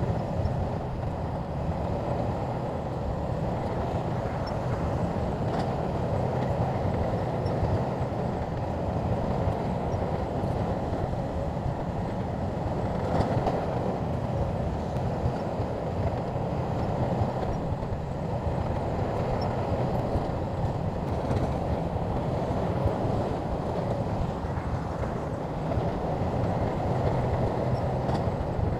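Shantui crawler bulldozer working: a steady diesel engine rumble mixed with track clatter, with a few faint clanks along the way.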